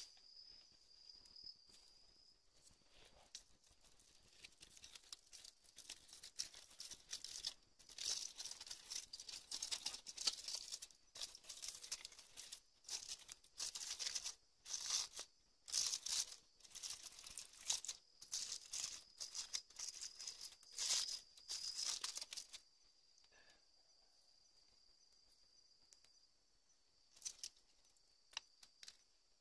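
Irregular bursts of rustling and crinkling for about fifteen seconds, over a steady high-pitched insect trill that is heard on its own at the start and again near the end.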